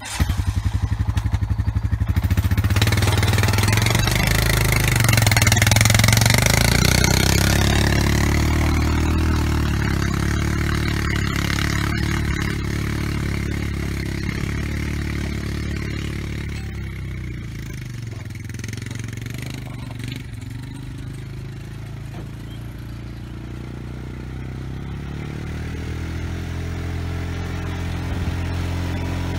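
Small off-road vehicle engine running under load as it pulls a land planer through a ditch, louder for a few seconds early on, then easing and building again near the end.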